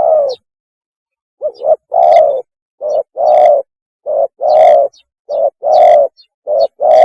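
Spotted dove cooing its mating call. Each phrase is a short coo followed by a longer one, repeated five times about every 1.2 s.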